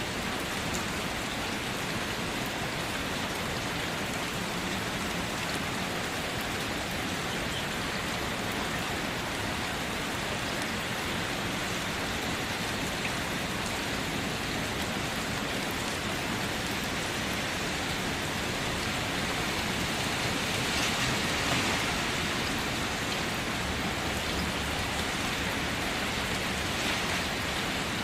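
Steady rain falling, an even dense hiss that swells slightly about twenty seconds in.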